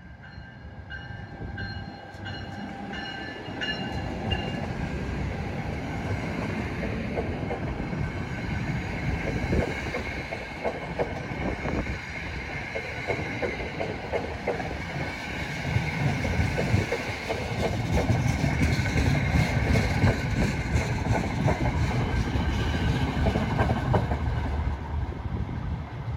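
New Jersey Transit train passing close by: rumble and wheels clacking over rail joints, building to its loudest past the middle and easing off near the end. The tail of its horn fades out in the first few seconds.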